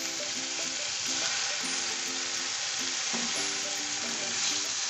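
Marinated chicken pieces frying in melted butter in a cast-iron skillet: a steady sizzling hiss.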